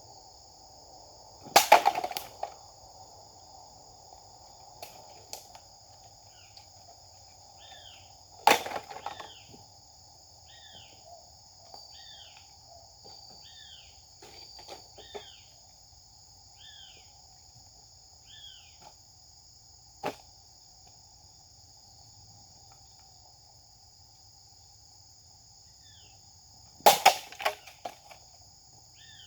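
Three sharp strikes of a Japanese sword cutting through targets, each followed by a brief clatter of falling pieces: one just after the start, one about eight seconds in, one near the end. Insects trill steadily throughout, and a bird repeats short falling chirps in the middle.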